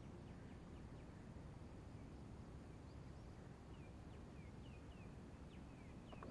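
Near silence: faint outdoor background with a few faint, short, falling bird chirps, mostly in the second half.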